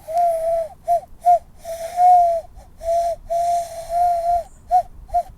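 Cupped-hand whistle blown to imitate a common loon's call: a run of about eight breathy, hooting notes at one steady pitch, some held for about a second and some quick and short.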